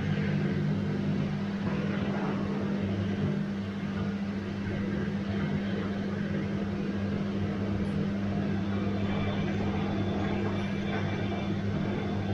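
Bosch washing machine running: a steady low hum over an even rushing noise.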